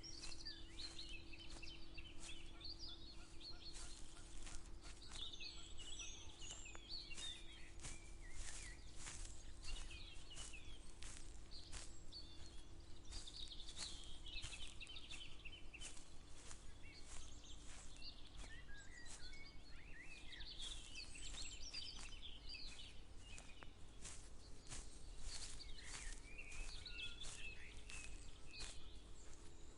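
Outdoor dawn ambience: several songbirds sing in short bursts of chirps and trills while footsteps tap along at walking pace. A faint steady low hum runs underneath.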